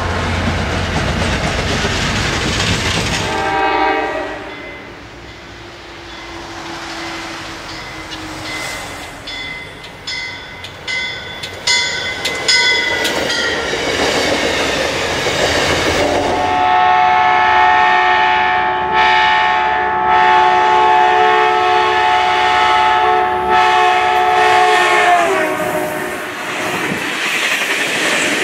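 Commuter trains rolling past one after another, wheels clattering over rail joints, with a multi-note locomotive horn blown in one long steady blast lasting about eight seconds in the second half, dipping in pitch as it ends.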